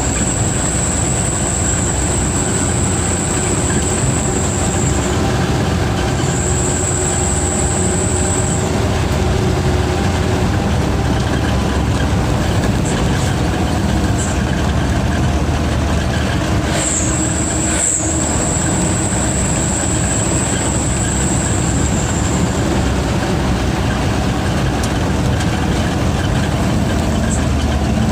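Truck's diesel engine running steadily under way, with a high turbocharger whistle that comes and goes: for about five seconds at the start, again for about two seconds, and for about six seconds from roughly seventeen seconds in.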